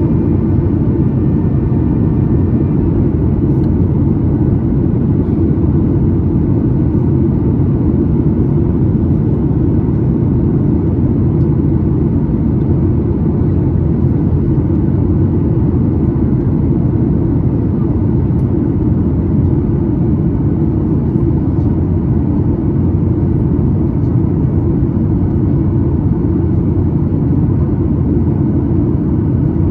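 Boeing 737-9 MAX in flight, heard from inside the cabin: a loud, deep, even rumble of engine and airflow noise.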